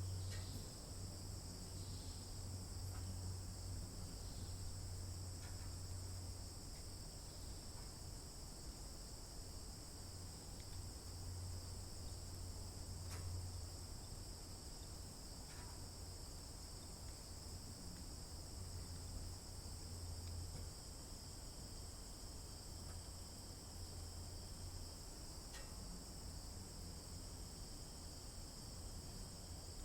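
A steady, unbroken chorus of crickets, their shrill trilling sitting in two high bands, with a low hum underneath and a few faint ticks.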